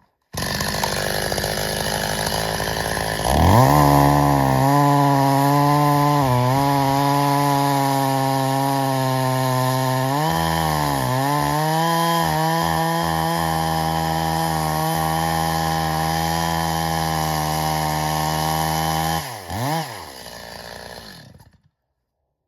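Stihl MS 270 two-stroke chainsaw running low and rough, then revving up about three seconds in to a steady high-speed whine. The pitch sags briefly twice. Near the end it drops back, blips once and dies away.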